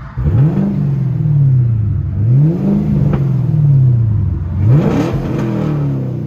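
Chevrolet Camaro LT1 6.2-litre V8 with a straight-piped, muffler-delete dual exhaust, revved three times. Each rev climbs quickly and then falls back slowly toward idle. Heard from inside the car's cabin.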